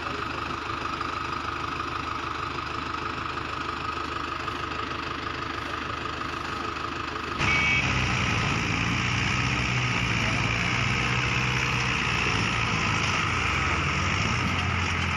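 A heavy vehicle engine running steadily. About halfway through the sound jumps suddenly louder, with a stronger low engine drone.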